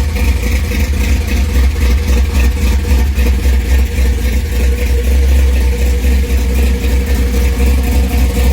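Classic car's engine running at a steady idle.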